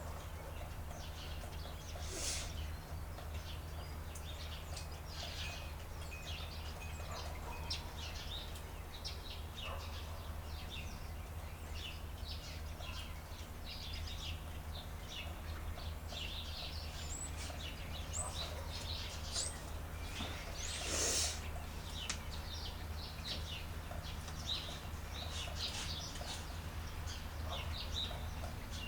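Birds chirping and calling in many short notes over a steady low hum, with one louder call about two-thirds of the way through.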